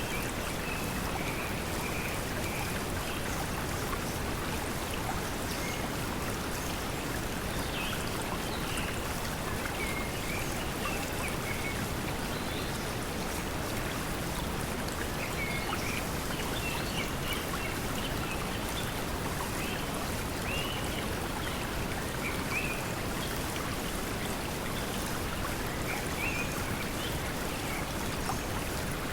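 Steady pink noise mixed with the hiss of flowing water, with scattered short high chirps from forest creatures over it.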